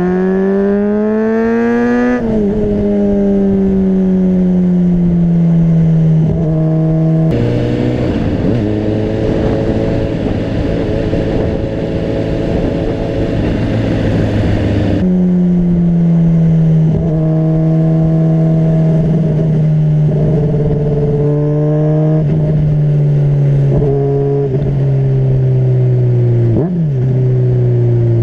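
Honda CBR600RR's inline-four engine heard from on the bike: it revs up and drops through a gear change about two seconds in, then holds a steady cruising hum with small changes in pitch. From about seven to fifteen seconds a burst of wind noise hisses over the microphone.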